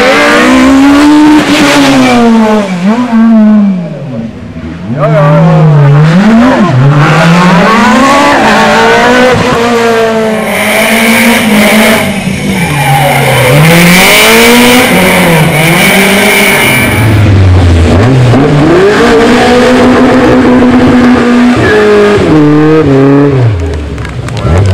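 Rally car engine revving hard, its pitch climbing and dropping again and again through gear changes and lifts, with short dips where the throttle comes off. A high steady whine or squeal sits over the engine for several seconds in the middle.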